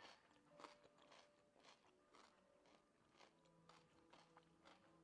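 Faint chewing: soft, irregular crunching clicks, roughly two a second, over near silence.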